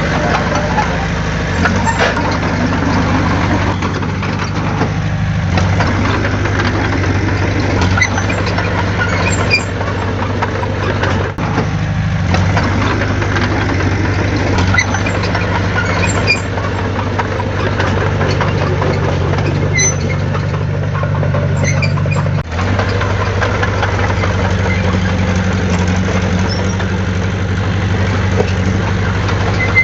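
Heavy machinery diesel engine running steadily, its pitch shifting now and then as the machine works. The sound drops out briefly twice, once near the middle and once about three-quarters of the way through.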